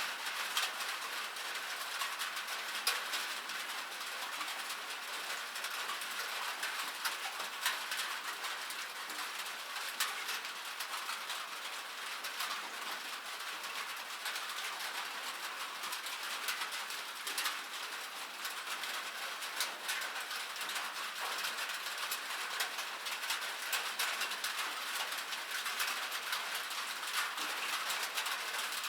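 Steady rain falling on a metal surface: a dense hiss of drops with many sharp ticks and pings from single drops striking the metal.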